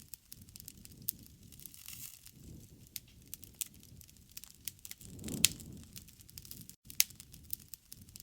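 Campfire crackling: irregular sharp pops and snaps of burning wood over a low rumble of flames, with a louder pop about five seconds in.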